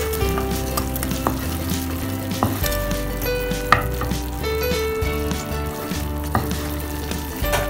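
Chicken wings sizzling in teriyaki sauce in a pan as a wooden spatula stirs them, with a few light clicks. Background music with held notes plays over it.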